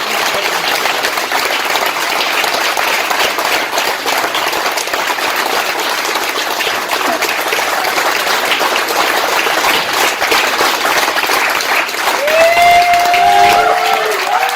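A crowd applauding and clapping steadily, with a raised voice calling out over it near the end.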